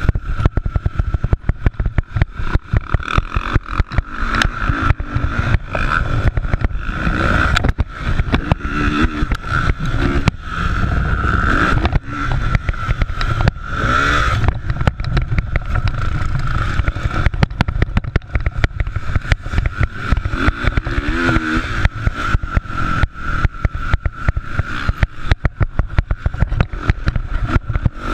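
Motocross dirt bike engines revving on the track, pitch rising and falling several times as bikes accelerate and pass, over a constant crackling rumble.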